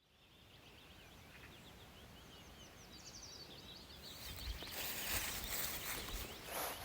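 Small birds chirping and twittering in quick, overlapping calls, fading in at the start. From about four seconds in, a louder rustling hiss joins them, with a few dull low thuds.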